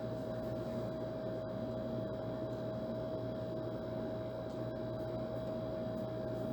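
Old air conditioner running steadily: a constant hum with a clear steady tone and a rush of fan noise underneath.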